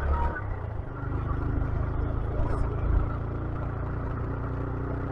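Small 125cc motorcycle engine running at a steady, low speed while riding, with some wind and road noise.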